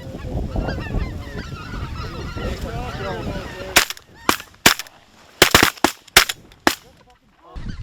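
Geese honking over low wind noise, then a rapid volley of about nine shotgun blasts in some three seconds from several waterfowl hunters shooting together, after which the calling stops.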